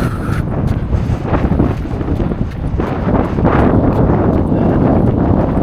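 Wind buffeting the microphone of a camera carried by a runner, a loud, steady rumbling rush. A brief high tone sounds right at the start.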